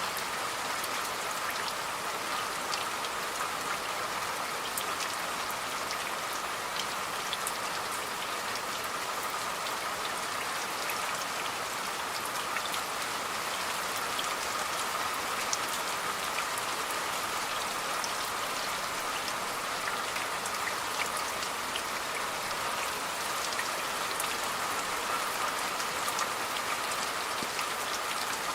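Steady rain falling, with many small drop ticks scattered over a constant hiss. It stays even throughout with no thunder.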